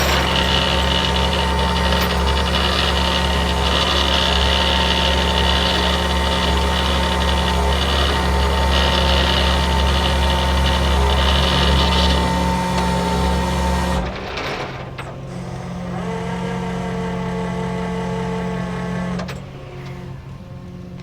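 A vehicle engine running steadily. About two thirds of the way through it cuts to a quieter running sound, which drops away again near the end.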